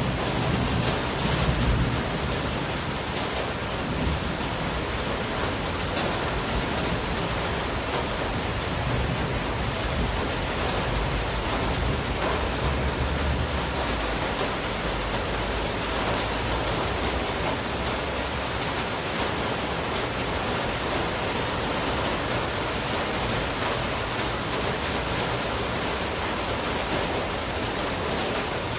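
Heavy monsoon rain falling in a steady, even hiss, with a low rumble swelling in the first couple of seconds and again around the middle.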